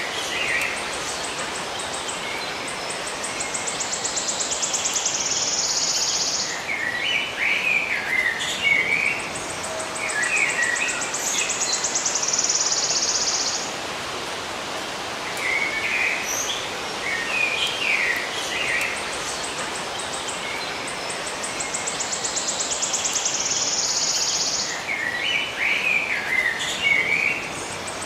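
Birds chirping in short clusters, alternating with a high, rapid pulsing trill like an insect's that swells for a few seconds and stops, over a steady hiss. The same sequence repeats about every eleven seconds, as in a looped nature-ambience track.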